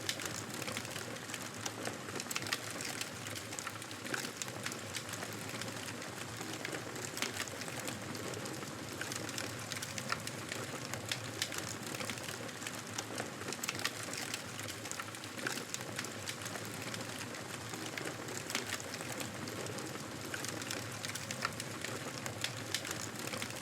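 Wood fire crackling in a fireplace: a steady hiss with many small pops and snaps scattered throughout.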